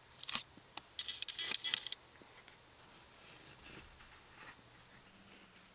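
A pen scratching on paper as a circle is traced around a cap: a brief scratch, then about a second of quick scratchy strokes, then faint rubbing.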